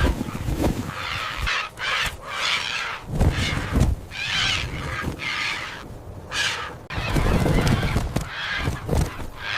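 Large birds calling in repeated harsh, honking squawks, several in a row with short gaps, over low thuds.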